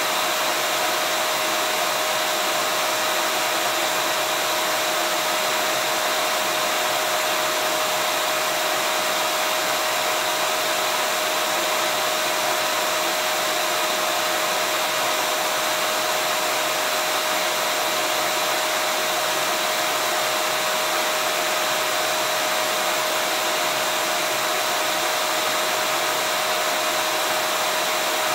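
Vacuum cleaner motor running steadily: an even rushing hiss with one steady whine held through it.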